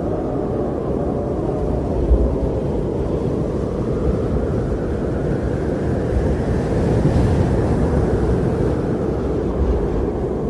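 Strong blizzard wind blowing in a steady, deep rush of noise, swelling into a stronger gust past the middle and easing off near the end.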